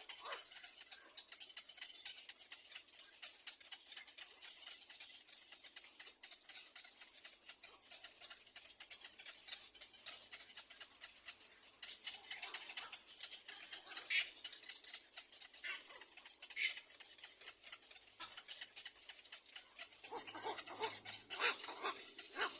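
Little egret chicks calling at the nest: a dry, rapid clicking chatter that keeps on throughout, with a louder burst of calls near the end.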